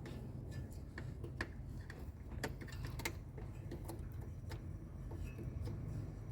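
Scattered light clicks and taps, about a dozen at irregular intervals, from hands and tools working on a washing machine's motor wiring, over a steady low hum.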